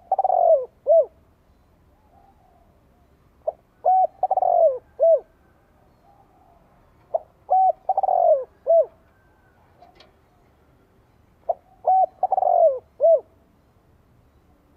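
Spotted dove cooing its song, a phrase of short coos around one longer falling coo, repeated four times at intervals of about four seconds.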